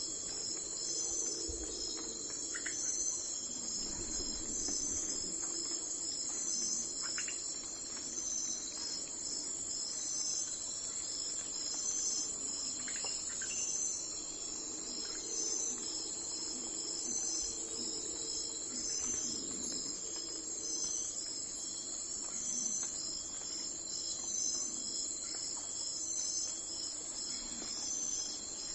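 A steady chorus of crickets trilling high and unbroken, swelling in a slow regular pulse, with a few brief chirps now and then over a soft low background hum.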